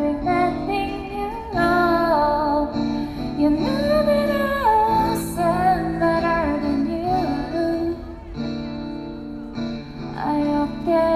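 A woman singing a slow pop song live over a band's accompaniment.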